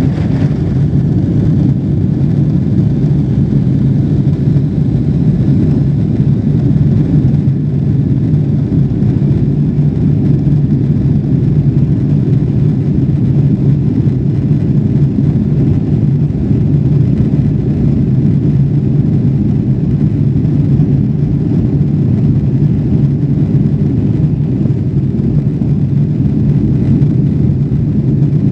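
Steady low rumble of a Boeing 777 airliner's jet engines and airflow, heard from inside the passenger cabin, holding even throughout with no rise or fall.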